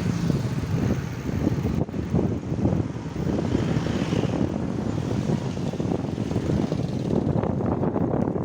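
Wind buffeting the microphone while riding on the road, with a steady rumble of traffic or the ride's own motor underneath.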